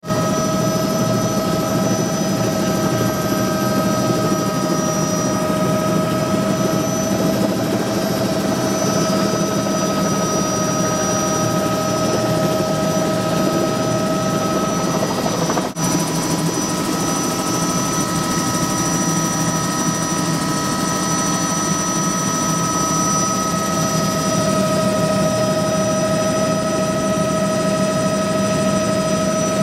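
Helicopter in flight, running steadily: a constant high engine whine over dense rotor noise. There is a brief dropout about halfway.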